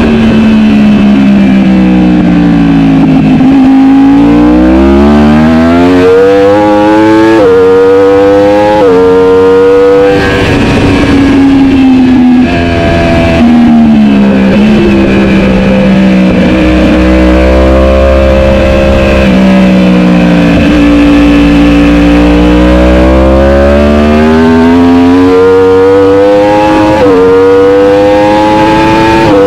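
Superbike engine at race pace, revving hard up through the gears with quick drops in pitch at each upshift, then winding down as it is shifted down and braked for corners, over and over.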